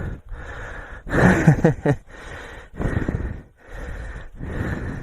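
A man's heavy breathing close to the microphone: a run of breaths about one every second, with a short voiced grunt about a second in.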